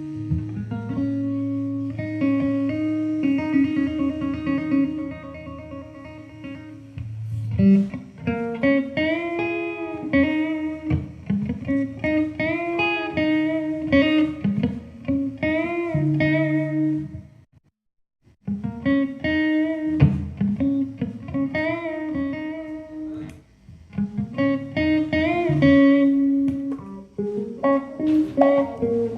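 Guitar instrumental: a melody with notes bending up and down in pitch over a steady low accompaniment, stopping briefly a little past halfway through.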